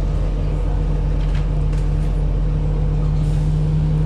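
Steady low drone of a city bus's engine and running gear, heard from inside the passenger cabin, with a few faint clicks about a second and a half in.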